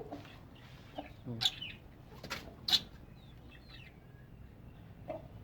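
Backyard chickens making short, scattered clucks. Two loud sharp sounds come about one and a half and nearly three seconds in, and faint high chirps follow near the middle.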